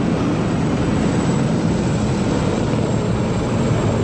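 Aeroplanes flying low past, a loud steady engine noise with no break: a rehearsal flypast for Singapore's National Day.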